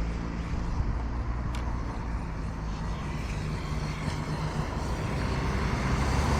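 Arrma Kraton 8S 1/5-scale electric RC truck being driven, a steady running sound that grows louder near the end.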